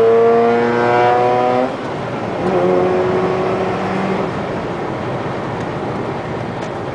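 Car engine revving up under hard acceleration, its pitch climbing, then dropping suddenly at an upshift less than two seconds in. It pulls again in the next gear for about two seconds before settling into steady road noise.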